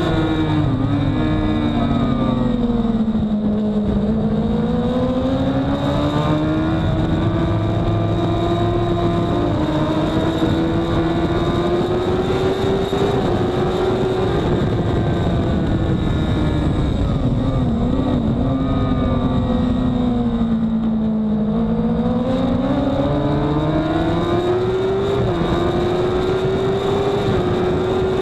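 Honda CBR1000RR inline-four sportbike engine pulling hard at race speed, heard from onboard over heavy wind rush. Its pitch sags twice and climbs back, with a thin steady high whine above it.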